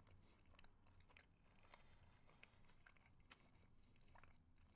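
Faint chewing of a mouthful of soft steamed bao bun, with small, irregular mouth clicks over a low steady hum.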